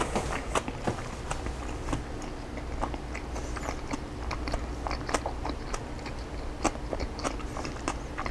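Close-up chewing of a mouthful of chicken salad with crunchy raw cabbage, jalapeño and green onion: wet mouth sounds broken by irregular crisp crunches and clicks.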